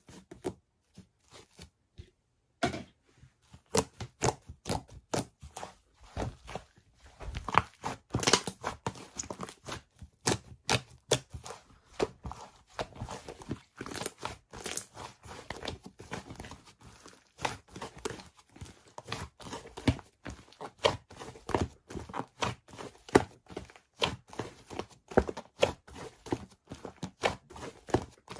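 Slime squished and stretched by hand, making a fast, irregular run of sticky clicks and pops. The clicks are sparse at first and grow dense from about three seconds in.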